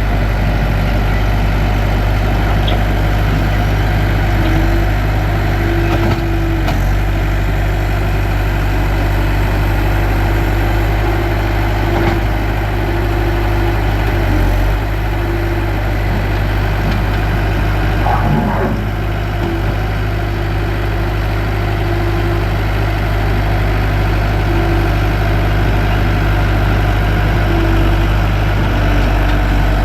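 Bobcat T300 tracked skid steer's four-cylinder diesel engine idling steadily, with a mid-pitched tone that comes and goes every few seconds over the low drone.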